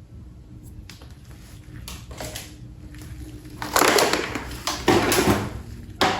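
Toy parts and packaging being handled: a few light clicks, then two loud rustling scrapes about four and five seconds in, and a sharp click near the end.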